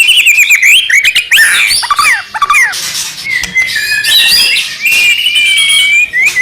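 White-rumped shama singing a fast, varied song: quick rising and falling whistled notes and chatter, then a long drawn-out wavering note over the last few seconds.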